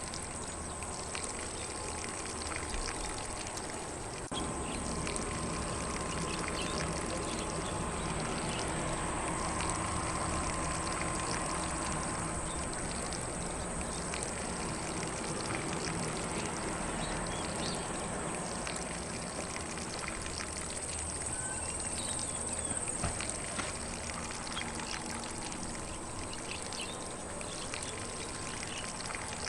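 Lawn sprinkler spraying water across grass: a steady rushing hiss of spray that gets slightly louder about four seconds in.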